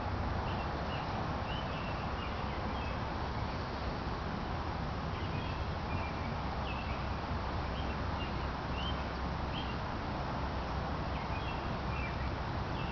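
A songbird giving runs of short, high chirps near the start, around the middle and near the end, over a steady low rumble and hiss of outdoor background.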